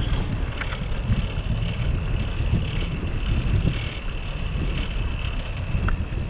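Wind buffeting the microphone of a camera on a moving bicycle, a steady low rumble with the ride's road noise under it. A faint steady high tone runs through it.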